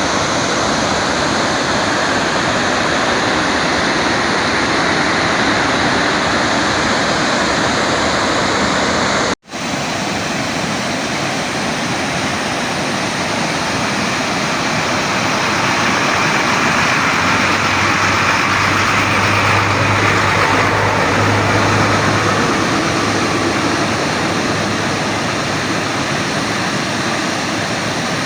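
Dam service spillway discharging flood water: a loud, steady rush of falling water, broken by a brief cut about nine seconds in.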